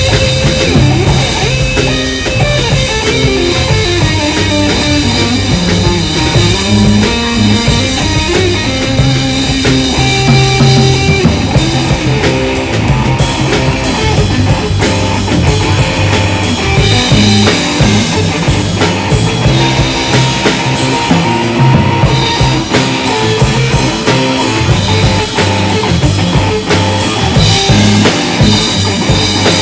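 Rock band playing live without vocals: electric guitar, bass and drum kit, with fast cymbal strokes coming in about halfway through.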